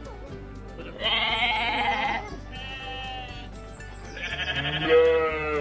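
Sheep bleating: two long quavering bleats, the first about a second in and the second near the end, over calm background music.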